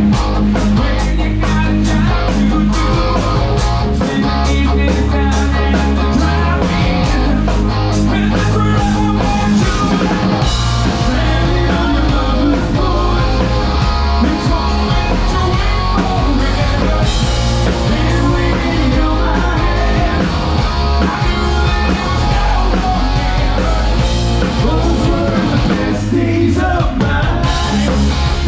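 Rock band playing a song: singing over electric guitar, bass and drums, at a steady loud level.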